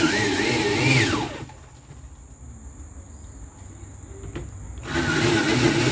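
Electric power drill running with a wavering whine. About a second in it is released and winds down, falling in pitch. Near the end it is triggered again and runs up to speed.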